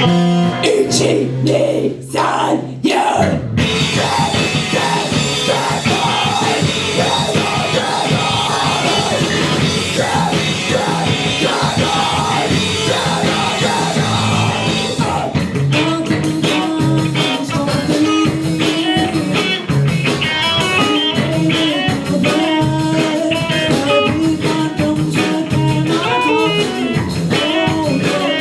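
Live rock band playing: electric guitar and drums, with the sound changing character about a quarter of the way through and a sustained bass line from about halfway on.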